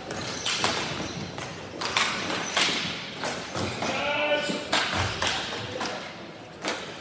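Ball hockey play: sticks and the ball knocking on the floor and boards in a string of sharp knocks and thuds, with a brief shout about four seconds in.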